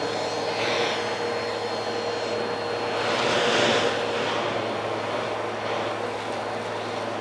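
Vacuum cleaner running steadily with a constant motor whine, growing louder briefly around the middle.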